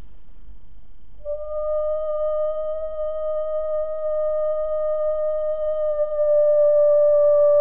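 A woman's voice toning (sustained vocal sound healing, not singing): one long held note that starts about a second in, keeps a steady pitch and swells louder near the end.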